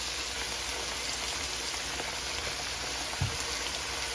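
Onion, bell peppers and scallions sizzling steadily in hot oil, with one soft knock about three seconds in.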